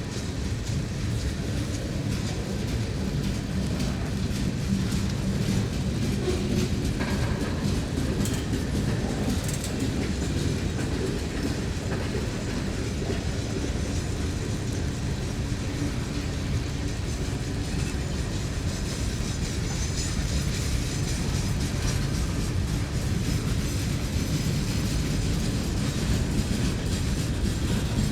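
Train cars rolling past steadily, wheels clicking over the rail joints.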